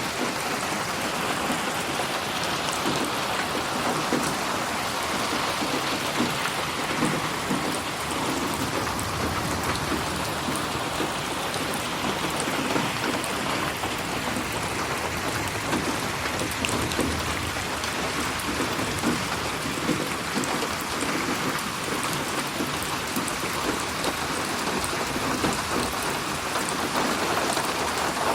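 Steady, heavy rainfall with a dense patter of drops on a surface, mixed as 8D audio that pans around the listener.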